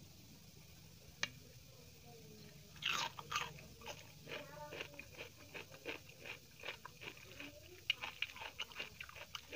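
Close-miked eating: a single sharp click about a second in, then from about three seconds in crisp crunching bites into raw cucumber dipped in dal, followed by continuous crunchy chewing with wet mouth sounds.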